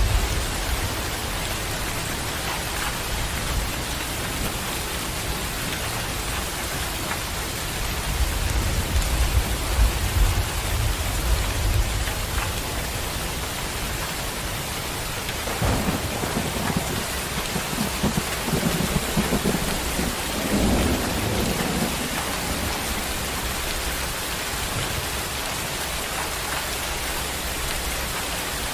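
Heavy rain pouring steadily, with low rumbles of thunder rising and fading several times.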